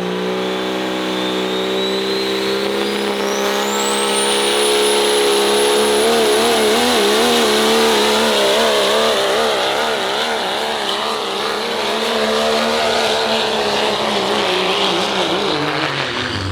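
Diesel pickup truck running at full throttle on a sled pull, with a high turbocharger whistle that climbs in pitch a few seconds in and then holds. The engine note wavers through the middle of the pull and falls off near the end.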